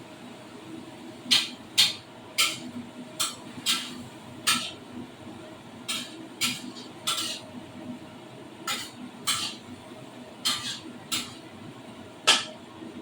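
A cooking utensil clinking and knocking against a pan, about fifteen sharp, irregular strikes, over a steady low hum.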